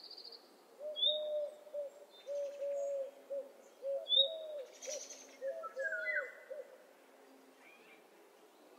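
Dawn bird chorus: one bird gives a quick run of short, low hooting calls for about six seconds, while smaller birds add brief high chirps.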